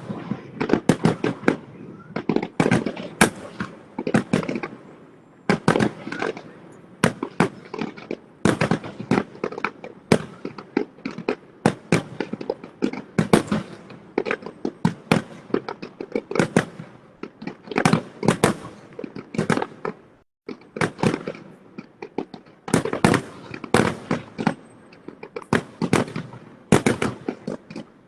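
Fireworks shells bursting in a dense, rapid barrage, several bangs a second with a few short lulls: the closing finale of the display.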